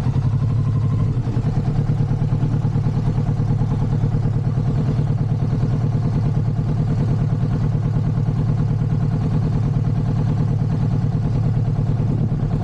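Motorcycle engine running at a steady, unchanging speed, a deep even pulsing note.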